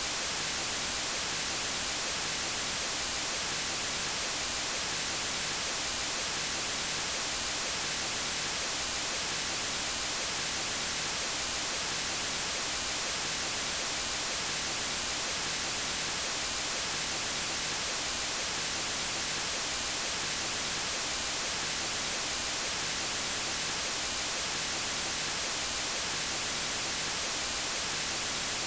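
Steady white noise: an even, unbroken hiss with no changes, strongest in the high frequencies.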